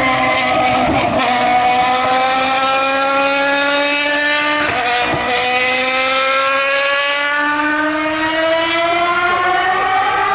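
Formula One car's 2.4-litre V8 engine accelerating, its high-pitched note climbing steadily, dropping at an upshift about four and a half seconds in, then climbing again.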